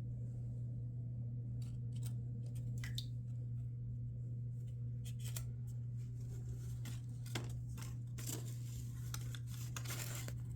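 Paper being handled in a craft project: scattered short crinkles and snips, with a longer stretch of rustling near the end, all over a steady low hum.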